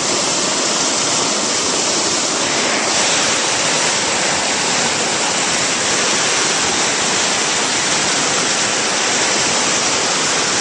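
Floodwater from Hurricane Irene rushing steadily in a swollen river, a loud, even wash of water noise.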